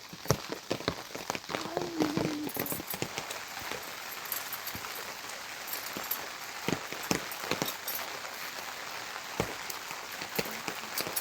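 Steady rain falling, with many sharp drips and drops striking nearby surfaces.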